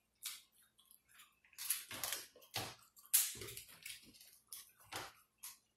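A person chewing boiled seafood close to the microphone: irregular short clicks and smacks of the mouth, coming a few times a second.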